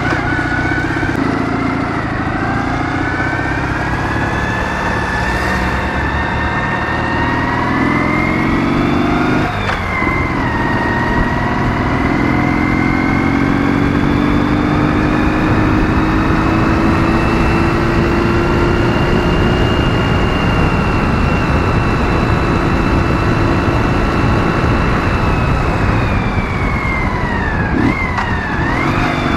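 Ural motorcycle's 650 cc flat-twin engine pulling hard under way. Its pitch climbs, drops at an upshift about ten seconds in, climbs again more slowly to a steady run, then dips briefly and picks up again near the end.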